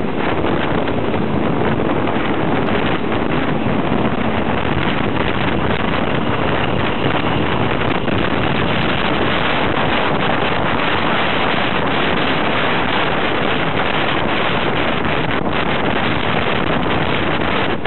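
Steady loud rush of train running noise and wind buffeting the microphone at the open window of a moving passenger train, as diesel-hauled trains pass close alongside on the next track.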